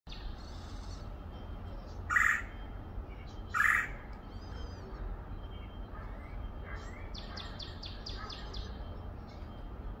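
Bird calls: two loud, harsh calls about two and three and a half seconds in, then a quick run of about eight short falling chirps near the end, over a steady low rumble.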